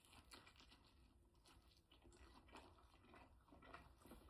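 Faint chewing: soft, irregular crunching and mouth clicks of someone eating a snack close to the microphone.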